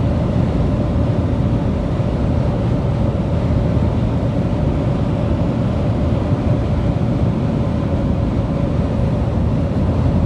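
Car on the move: steady road and engine noise from inside the cabin, with a faint steady hum throughout.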